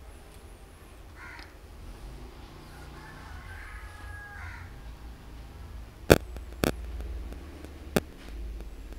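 Faint bird calls, twice, over a low hum, then three sharp clicks in the second half.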